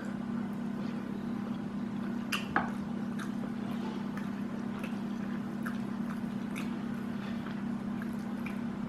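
Wet mouth clicks and squishy chewing sounds of someone eating, scattered and irregular, with a sharper click about two and a half seconds in. A steady low hum runs underneath.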